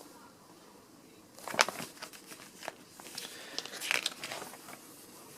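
Paper pages of an owner's manual being turned and handled: a run of crisp rustles and crinkles starting about a second and a half in.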